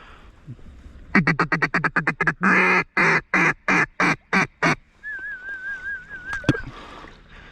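Hen mallard duck call blown to high-flying ducks: a quick run of short quacks, then about six longer, louder quacks. About a second later comes a brief warbling whistle, ending in a click.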